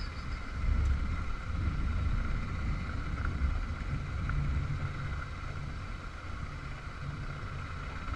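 Motorcycle engine running steadily while riding, a low rumble mixed with wind noise on the microphone.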